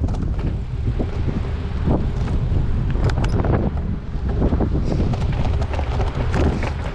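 Wind buffeting a GoPro Hero8's microphone on a moving gravel bike: a loud, steady low rumble, broken by scattered sharp clicks and rattles.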